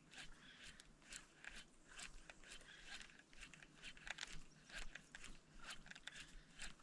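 Near silence with faint, irregular clicks and ticks, a few each second.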